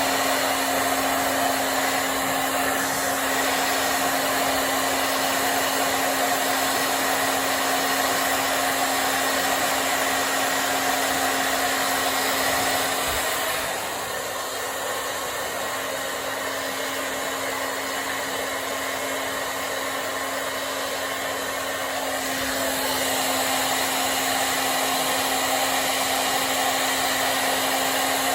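Hair dryer running steadily, its rush of air over a steady hum, blowing on hair as it is dried. About halfway through it drops a little quieter for roughly ten seconds, then comes back up to full level.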